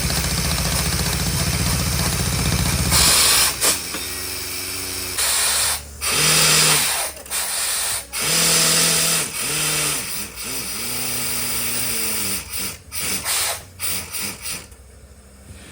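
Mini borewell drilling rig's machinery: a steady hum with a fast low pulse for about three seconds, then stop-start bursts of hiss and pitched humming, fading near the end.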